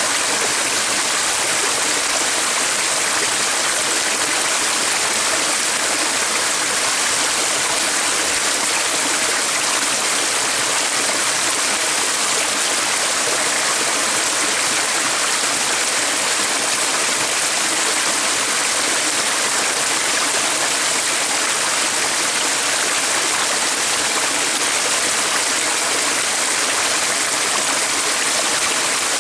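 Flowing water rushing steadily, as a stream does, with an even sound that does not change.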